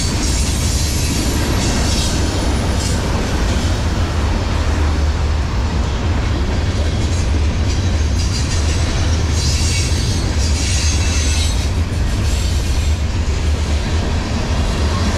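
Freight cars of a CSX manifest train rolling past on the track: boxcars, hoppers and tank cars making a steady, loud low rumble of wheels on rail, with brief high hissing swells now and then.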